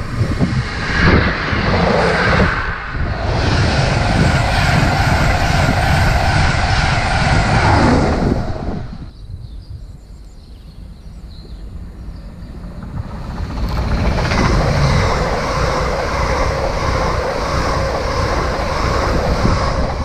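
A diesel multiple unit passes close by with engine and rail noise that dies away about nine seconds in. After a few quieter seconds, an LNER Azuma high-speed train is heard coming closer and rushing past, loud for the last six seconds.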